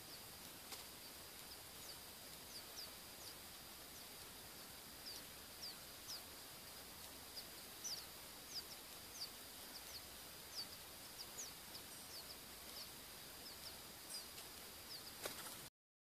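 Faint, thin, high bird chirps, short quick notes coming about once or twice a second, over a steady faint high-pitched whine.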